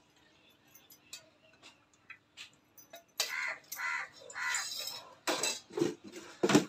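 A bird giving a run of harsh caws, starting about three seconds in, the loudest two near the end, over a few faint clinks of steel kitchen vessels.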